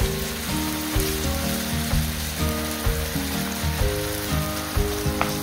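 Gochujang-coated king oyster mushrooms sizzling in a frying pan, a steady hiss, under background music of held notes changing every half second or so.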